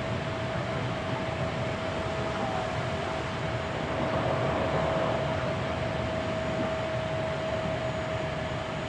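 Interior running noise of a Hankyu 7300 series electric train picked up from the car floor: steady rumble of wheels on rail with a steady high hum held throughout, swelling slightly about halfway through.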